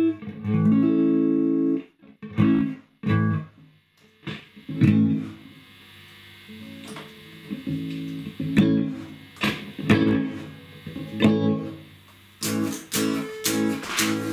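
Electric guitar with single-coil pickups played through a Fender tube guitar amp that has just had its filter capacitors replaced to cure crackling distortion: a held chord, then single picked notes and short strums with pauses between them, with hardly any noise.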